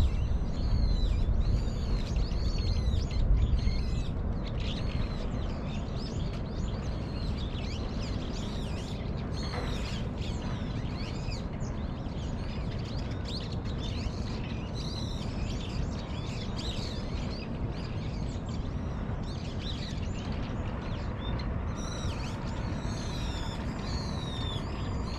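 Small birds chirping over and over in short, high, repeated notes, thickest at the start and again near the end, over a steady low background rumble that is louder for the first few seconds.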